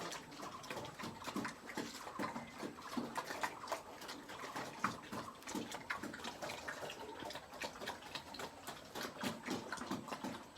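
Piglets and their sow eating from a trough: a busy, irregular patter of wet chewing and smacking clicks.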